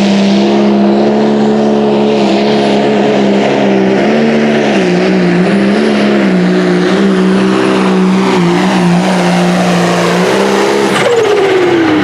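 John Deere 830 Pro Stock pulling tractor's turbocharged diesel engine held at high revs under full load while pulling the sled, its pitch dipping briefly twice. About a second before the end it cuts back and winds down with a falling pitch as the throttle comes off.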